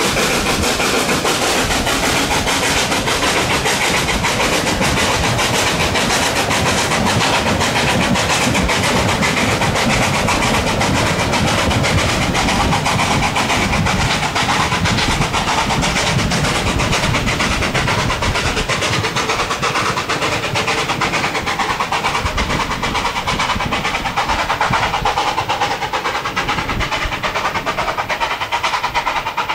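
Train running along the track with a steady clatter of wheels on rail.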